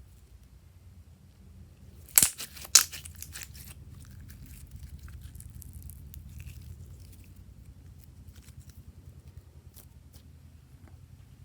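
Two sharp crinkling crackles about two seconds in, followed by a second of smaller crackles, then quieter handling with faint scattered clicks.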